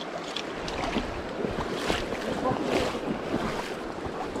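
Stream water rushing and splashing in irregular sloshes, with some wind on the microphone.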